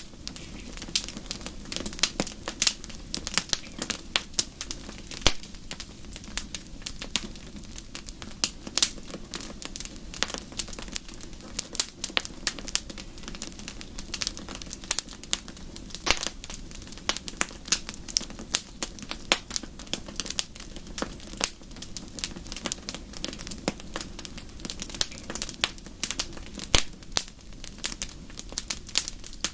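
Wood fire in a fireplace crackling steadily, with irregular sharp pops and snaps several times a second over a low, even rumble.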